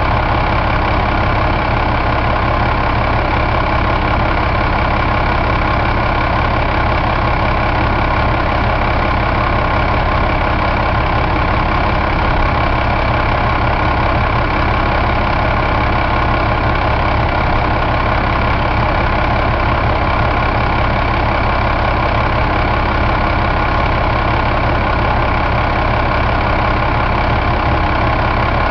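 Cummins ISX inline-six diesel engine idling steadily.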